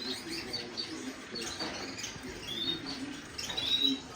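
A roomful of caged canaries and finches chirping and calling over one another: many short high chirps and trills overlapping, with a louder chirp near the end.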